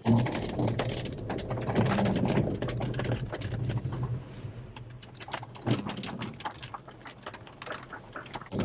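Quick, irregular clicks and taps inside a Mercedes CLA 200's cabin over the car's low, steady hum.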